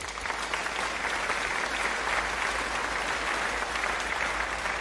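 Audience applause: steady clapping from many hands, laid in as a sound effect after a name is read out.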